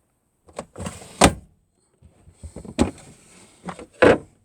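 Drawers in a camper van being pulled open and pushed shut: a run of about five sharp knocks and bumps with short sliding scrapes between them, the loudest about a second in and just before the end.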